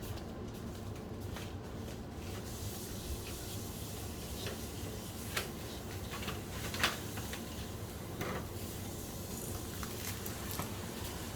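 Scattered light clicks and knocks, about half a dozen, the sharpest about seven seconds in, over a steady low hum.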